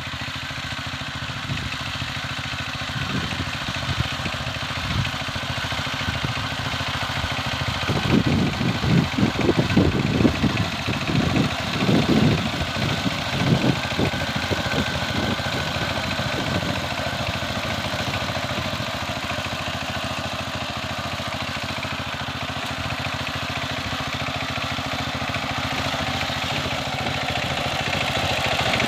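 Power tiller's single-cylinder diesel engine running steadily, with a stretch of irregular heavy low thuds from about a quarter to halfway through before the run evens out again.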